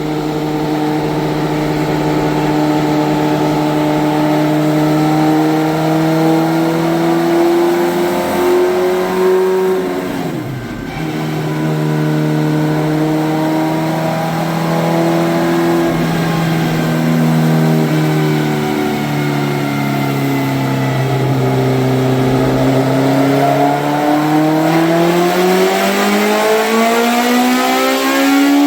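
Mini truck's twin Suzuki Hayabusa engines running hard on a chassis dyno. The revs hold steady, dip sharply about ten seconds in, step down twice, then climb steadily near the end.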